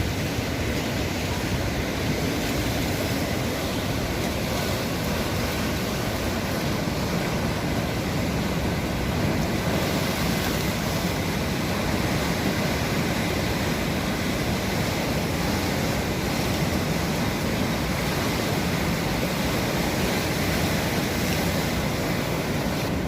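Sea surf washing in a steady rush of noise.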